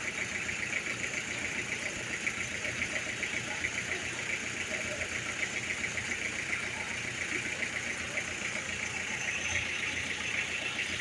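1999 Toyota Tamaraw FX engine idling steadily, with a fast, even ticking running through the idle.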